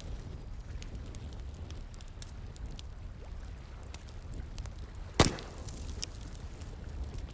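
Wood bonfire crackling, with scattered small snaps and one loud sharp pop about five seconds in, over a steady low rush of flowing water.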